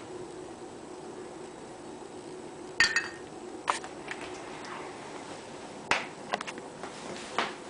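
Microwave oven running with a steady hum while a lightbulb inside gives off scattered sharp clicks and snaps. The loudest, about three seconds in, has a glassy ring.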